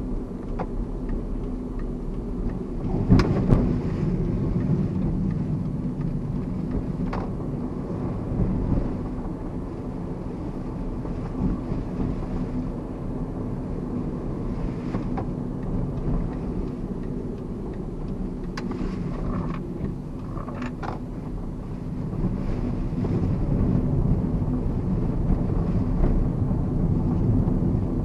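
Mazda Verisa hatchback driving along, heard from inside the cabin: a steady low rumble of road and engine noise with a light hum, broken by a few short knocks over bumps, the loudest about three seconds in.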